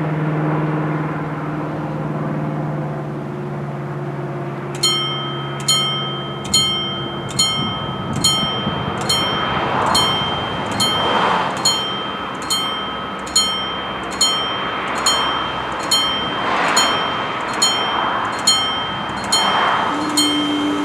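Level-crossing warning bell starts striking about five seconds in, with sharp ringing strokes a little under one a second, the signal that the crossing is closing for an approaching train. Before the bell starts, a low steady hum fades away.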